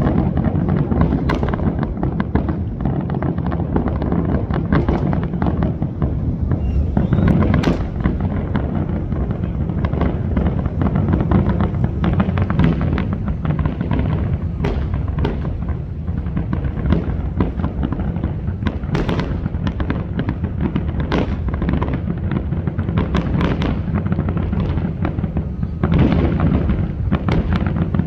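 Fireworks display in a dense barrage: many sharp bangs and cracks, one after another, over a continuous low rumble of booms.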